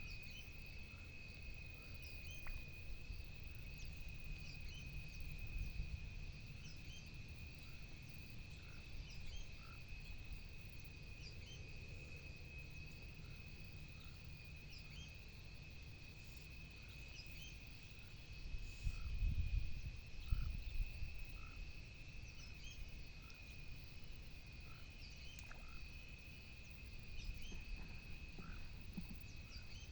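Pond-side night chorus: insects droning in a steady high whine, with scattered short frog calls. A few low rumbles, the loudest about two-thirds of the way through.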